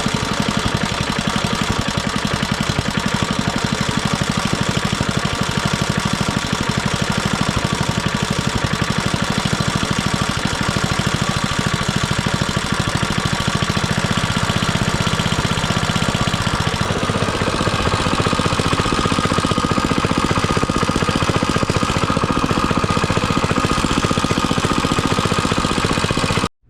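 Small single-cylinder engine of a plate compactor running steadily with rapid, even firing pulses. Its tone shifts about fourteen seconds in and again about seventeen seconds in, and it cuts off abruptly near the end.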